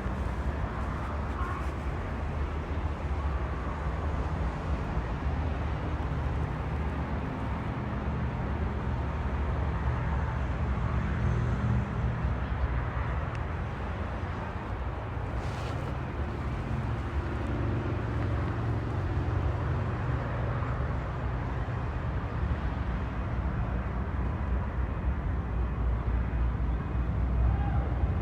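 Diesel freight locomotive engine running, a steady low rumble with a faint hum that gets louder near the end.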